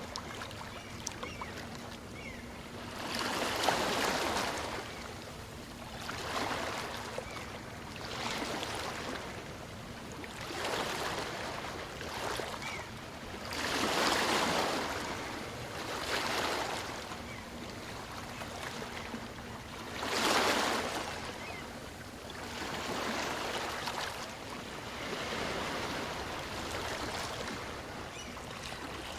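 Small waves of a calm sea breaking and washing up on a beach. A surge of surf comes every two to three seconds, the biggest at about four, fourteen and twenty seconds in.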